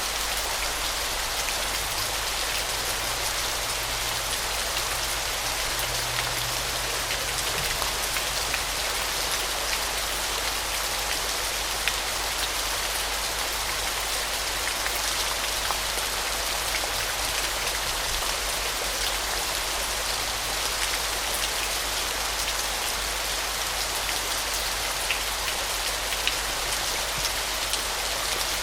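Waterfall: a steady, even rush of falling water with fine splashing.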